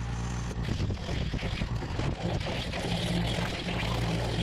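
Pressure washer running steadily: a constant low motor hum under a hiss of spray, with small irregular clicks and spatters.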